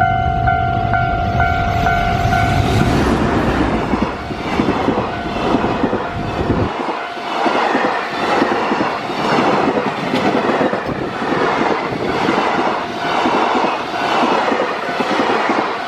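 JR Freight EF210 electric locomotive passing with a heavy low rumble, then its freight wagons clattering over the rail joints in a steady rhythm of about one beat a second. A held warning tone sounds at the start and stops about two and a half seconds in.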